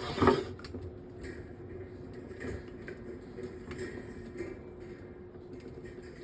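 Light scattered ticks and handling noise as the front grille of a metal table fan is worked loose by hand, over a faint steady hum. A brief vocal sound comes right at the start.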